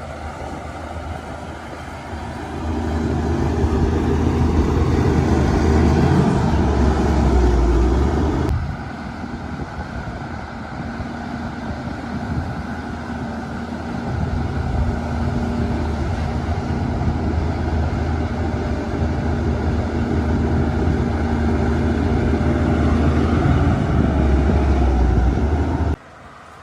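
Shantui DH17-C2 bulldozer's diesel engine running under work, growing louder twice as it takes load and easing off in between. The sound drops away suddenly near the end.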